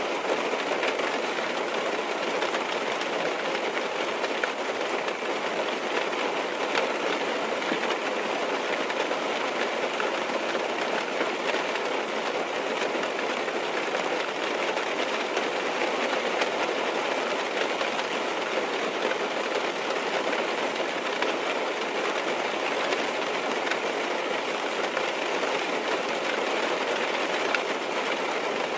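Rain falling steadily on a car's roof and windows, heard from inside the cabin as an even hiss and patter with scattered small drop ticks.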